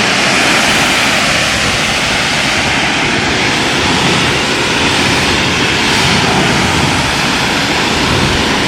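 Pressure washer jetting water onto car paintwork in one steady, loud hiss that runs unbroken, rinsing off a spray-on wet coat sealant.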